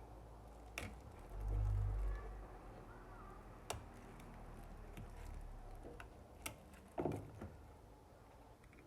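Scattered small clicks and taps of hand tools and plastic phone parts as a Samsung Galaxy A03 smartphone is taken apart. A short low rumble, the loudest sound, comes about one and a half seconds in.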